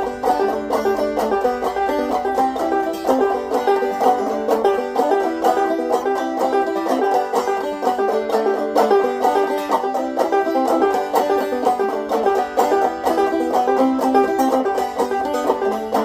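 Banjo playing a fast instrumental break, a steady stream of rapid plucked notes in a bluegrass-country style.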